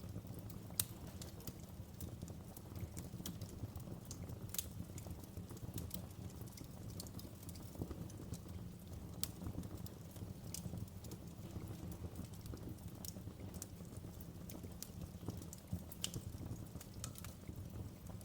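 Wood fire crackling in a fireplace: scattered sharp pops and snaps over a low steady rumble, with one louder pop about a second in.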